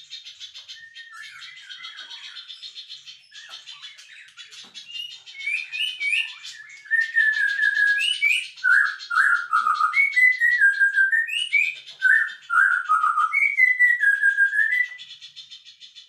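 A songbird singing a run of loud, clear whistled phrases, many sliding down in pitch, from about five seconds in until shortly before the end. A fast, high buzzy trill fills the start and comes back near the end.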